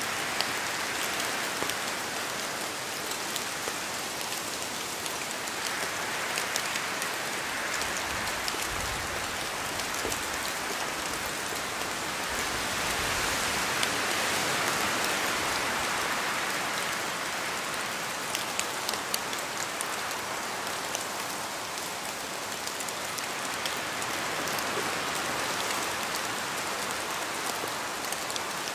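Steady rain falling, a continuous hiss sprinkled with sharp ticks of single drops. The hiss swells and eases slowly, loudest around the middle.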